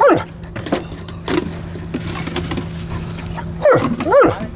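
A dog whining: a high rising-and-falling whine at the start and two more near the end, over a steady low motor hum.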